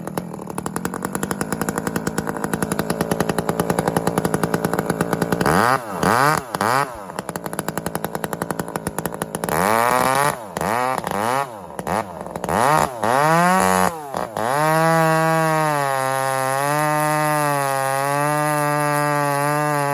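Two-stroke chainsaw running at idle, then revved up and down in several quick throttle blips, and from about three-quarters of the way in held at steady high revs.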